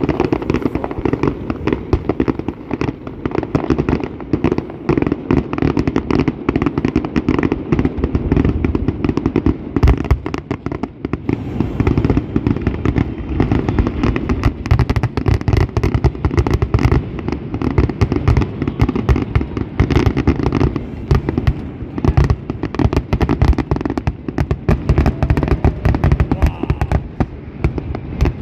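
Fireworks finale barrage: a dense, unbroken run of bangs and crackles, many per second, loud throughout.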